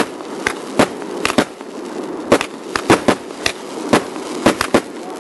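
Fireworks going off: a rapid, irregular string of sharp bangs and cracks, several a second, over steady crackling.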